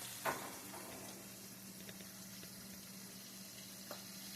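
Battered onion rings frying in hot oil in a skillet: a faint, steady sizzle and bubbling, with a low steady hum underneath and two small clicks.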